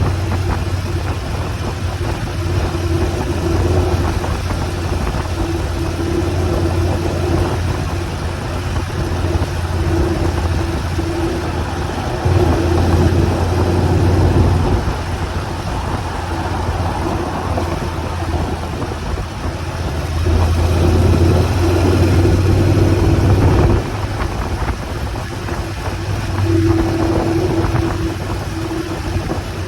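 Motorcycle engine running steadily under broad wind and road noise, its hum growing louder for a few seconds at a time, around the middle and again near the end.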